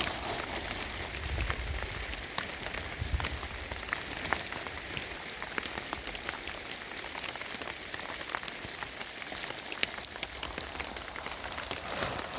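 Heavy rain falling steadily, with many sharp individual raindrop hits.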